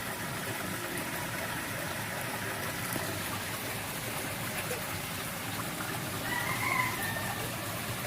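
A distant rooster crowing once, briefly, near the end, over a steady outdoor background hiss.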